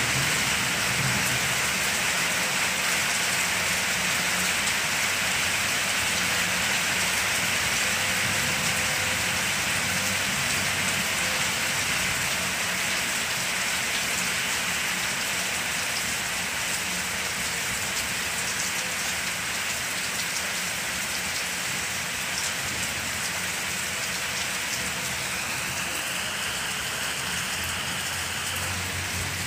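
Steady rain falling, an even hiss of drops that eases slightly over the stretch.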